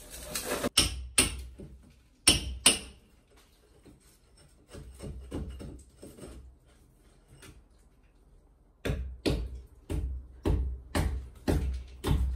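A series of sharp knocks: a few loud ones in the first three seconds, then a steady run of about two knocks a second from about nine seconds in.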